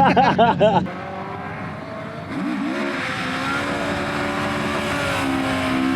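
Rally car engine running steadily, its pitch held level with a couple of small steps up and down, after a brief voice at the start.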